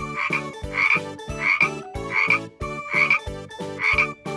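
A cartoon frog sound effect croaking about six times in an even rhythm, over a bouncy children's music backing with a steady beat.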